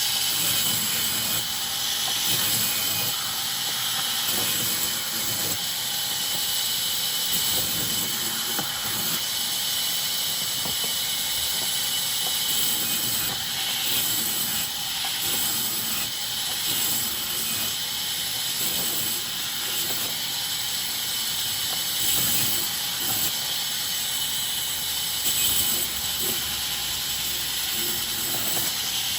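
Sawmill wood-cutting machinery running, a steady high-pitched mechanical noise that holds level throughout.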